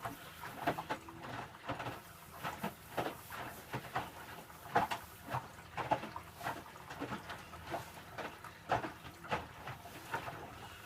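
Electrolux W455H commercial washing machine drum tumbling a wet load of towels during the prewash, with irregular sloshes and soft thuds coming a couple of times a second as the load lifts and drops in the water.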